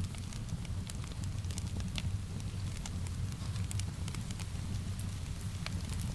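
Wood fire crackling, with many small irregular pops and snaps over a steady low rumble, mixed with a soft hiss of rain.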